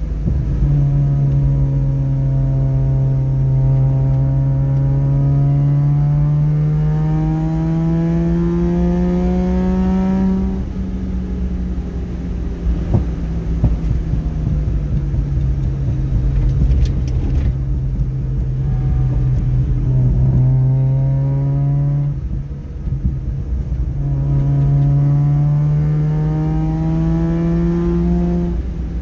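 Mazda RX-7 rotary engine on a Weber 48IDA carburettor with 3D-printed velocity stacks, heard from inside the cabin while driving. Its note climbs steadily through the revs in a long pull, drops sharply at a gear change about ten seconds in, runs lower for a while, then climbs again twice with another sharp drop between the pulls.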